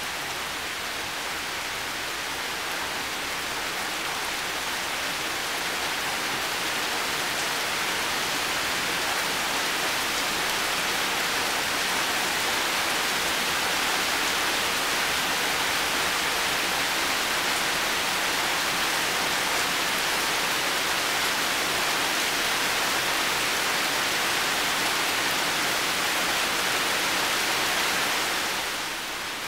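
Heavy rain falling steadily as a dense, even hiss with no distinct drops. It swells a little over the first dozen seconds and eases slightly near the end.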